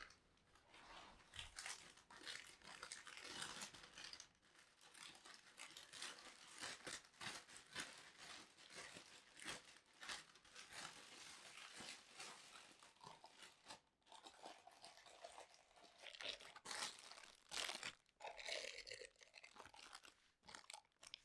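Faint crinkling and rustling of crinkly material being handled, with many irregular small crackles, pausing briefly about 14 s in and again just after 18 s.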